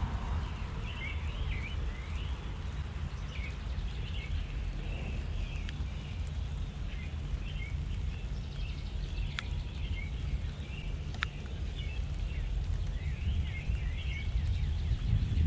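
Small birds chirping and twittering again and again over a steady low rumble, with two sharp clicks midway.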